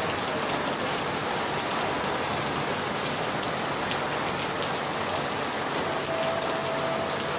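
Steady rain falling on a surface, an even hiss with fine pattering that doesn't let up. A faint held tone sounds over it about six seconds in.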